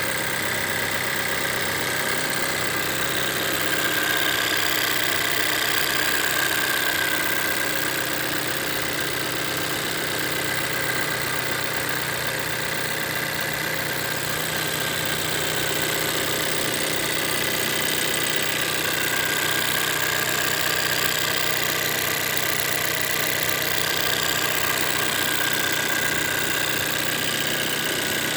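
2024 Toyota Corolla engine idling steadily in its fast cold-start idle, the revs settling back toward normal idle as it warms. It sounds normal and healthy.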